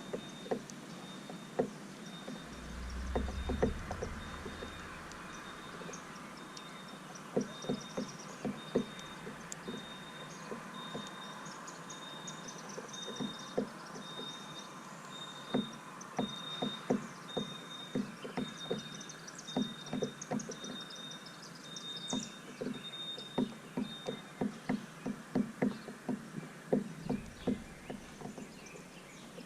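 Birds at a seed feeder: quick irregular tapping of beaks pecking seed, several taps a second, with faint scattered chirps. A high pip repeats evenly through most of it and stops near the end, and there is a brief low rumble a few seconds in.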